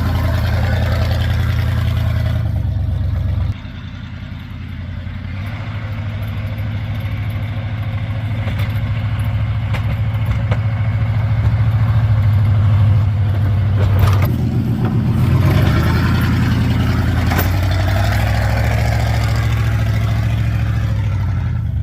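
Chevrolet plow truck's engine running; its sound drops suddenly about three and a half seconds in, then builds steadily over the next ten seconds.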